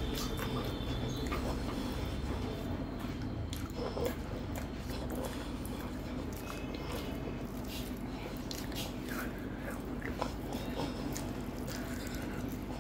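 Close-miked eating sounds: a person chewing a mouthful with wet mouth clicks and smacks, and fingers mixing rice on a steel plate. A steady low hum runs underneath.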